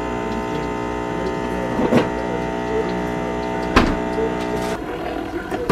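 A small electric motor humming steadily, with two sharp clicks during the run, then cutting off about five seconds in; a sharp knock follows at the end.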